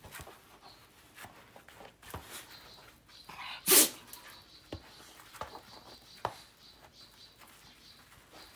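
A dog gives one short, loud vocal sound a little under four seconds in, with light taps and scuffs before and after.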